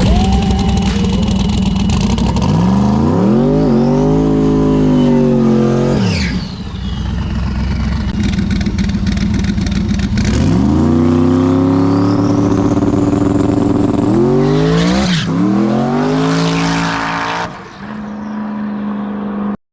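Turbocharged drag car engine revving hard. The pitch climbs and falls once, then climbs again for a longer run with a brief drop partway through, like a gear change, before settling to a lower steady note.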